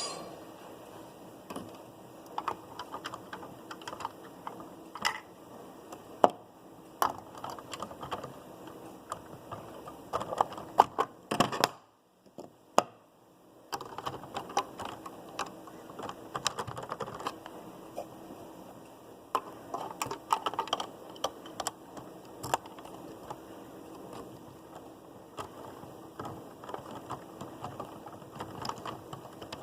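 LEGO City Passenger Train 60197 running on plastic track, its wheels and cars rattling with a dense run of irregular small clicks over a faint steady hum. About twelve seconds in, the sound drops briefly to near silence.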